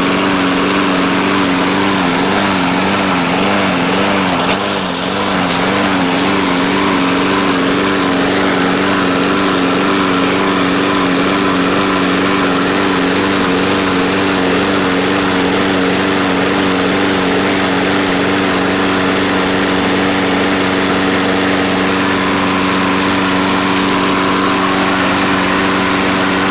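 Troy-Bilt walk-behind lawnmower's small gas engine running after starting on fuel left in it over the winter. Its speed wavers up and down for the first several seconds, then settles and holds steady.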